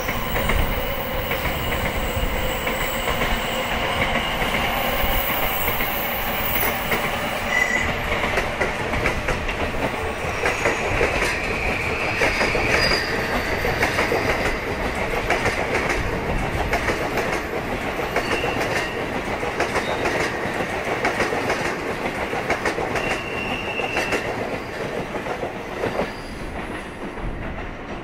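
Tokaido Shinkansen 700 series train running past, its wheels clicking over rail joints and points, with a few brief high-pitched squeals from the wheels now and then.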